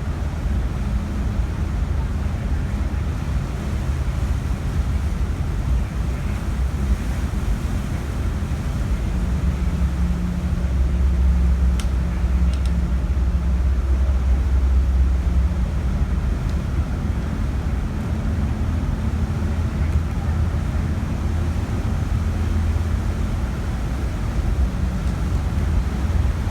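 Low, steady rumble of the Osprey 2000 ferry's engines during docking. It grows louder for several seconds in the middle, then settles back.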